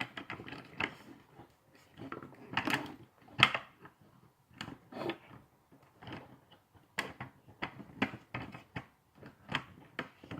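Small hard plastic toy truck parts and figures being handled, clicking and clacking: an irregular string of short knocks and rattles, the loudest about three and a half seconds in.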